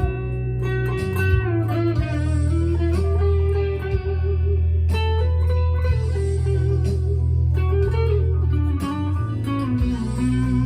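PRS SE McCarty 594 single-cut electric guitar played through an amp: a lead line of held, sustaining notes with slight bends, over a steady low bass part.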